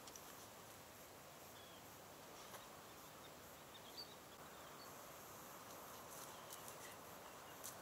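Faint outdoor quiet: a steady low hiss with a few short, distant bird chirps scattered through it and a few faint clicks near the end.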